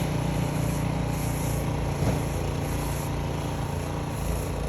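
An engine running steadily at a low, even pitch, with one brief knock about two seconds in.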